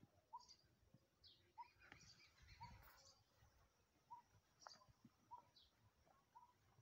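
Near silence, with faint short bird chirps repeating about once a second.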